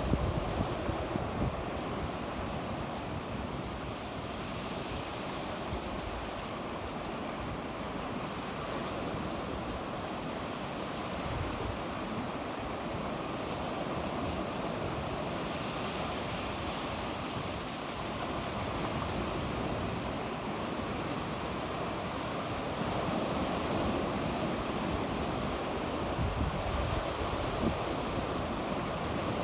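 Sea waves washing steadily onto the shore, the surf swelling and easing gently, with some wind noise on the microphone.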